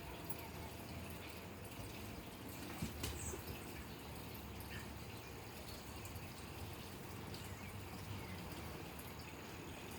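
Faint steady background hiss of outdoor ambience, with a brief faint high chirp about three seconds in.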